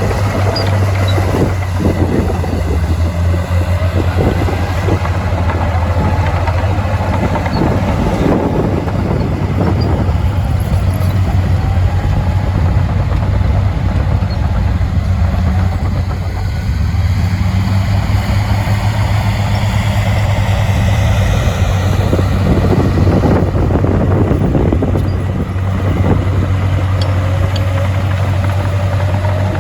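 Heavy diesel engine of earthmoving machinery running steadily, its pitch rising and falling as the revs change with the work.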